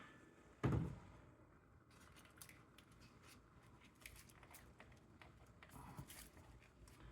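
Quiet handling of tools and engine-bay parts: a short knock a little under a second in, then light scattered clicks and taps of metal.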